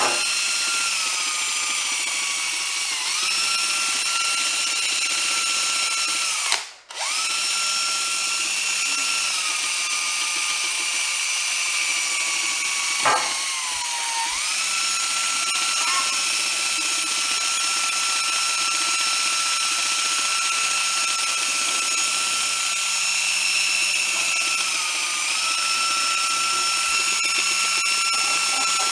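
Power drill spinning a brass wire brush to scour old glue off; the motor whines steadily, its pitch sagging several times as the brush bears down. It stops for a moment about seven seconds in, then starts again.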